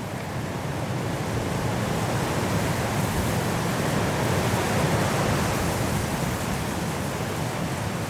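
High wind blowing through trees in a snowstorm: a steady rush that builds into a stronger gust in the middle and eases a little near the end.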